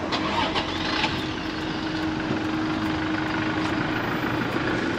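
Vehicle engine idling, a steady hum, with a few short knocks in the first second.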